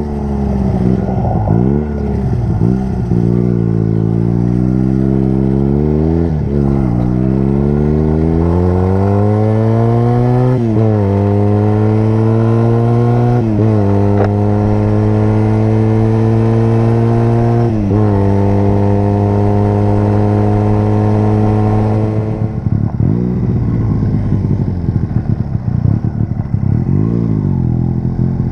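Honda motorcycle engine accelerating on a ride: its pitch climbs, dips with each of several upshifts, then holds steady at a cruise. About 22 seconds in the throttle is rolled off and the engine note turns rough and lower, mixed with rushing noise.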